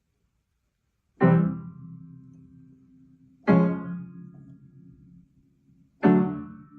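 Three single piano notes starting about a second in, each struck sharply and left to ring and fade, a little over two seconds apart.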